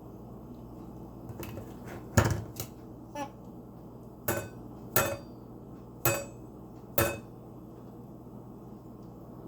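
Eclectus parrot knocking its beak against its food bowl: about eight sharp, irregular clinks with a brief ring, the loudest about two seconds in, then a few quiet seconds.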